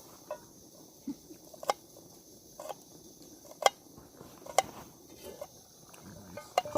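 Wood campfire crackling: sharp single pops about once a second over a faint steady high hiss.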